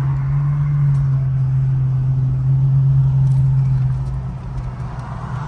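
Car engines running at low speed as cars pull in, a steady low engine drone that eases a little about four seconds in.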